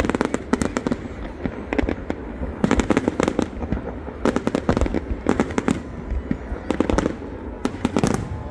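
Aerial fireworks exploding in quick clusters of sharp bangs and crackles, a new burst about every second, over a steady low rumble.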